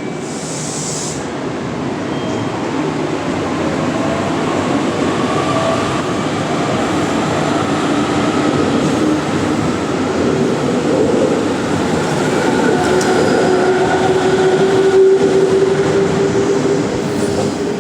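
Electric train running along the platform, its rolling noise growing steadily louder, with a faint motor whine that slowly rises in pitch. A short hiss of air comes about half a second in.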